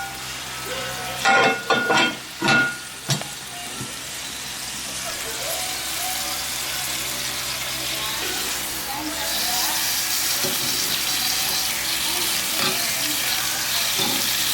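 Chicken sizzling on a barbecue grill with a cast iron griddle, a steady hiss that grows a little louder about nine seconds in. In the first few seconds, a few ringing metal clanks.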